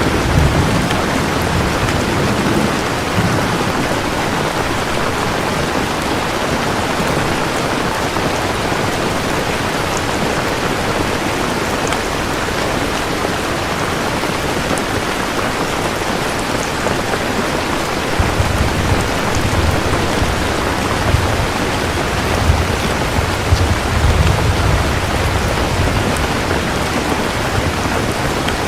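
Steady heavy rain with thunder. A low rumble fades out in the first few seconds, and a longer rolling rumble starts about two-thirds of the way through and dies away near the end.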